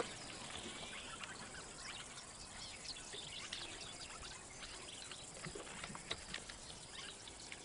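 Faint bush ambience: scattered short, high chirps and clicks over a low steady hiss, with no single loud event.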